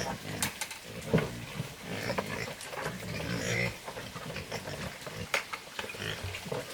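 Low, repeated grunting from an animal, with a few sharp knocks here and there.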